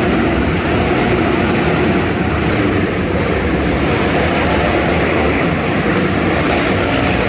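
Several dirt bike engines running at once in a race on an indoor arenacross track, a steady loud din.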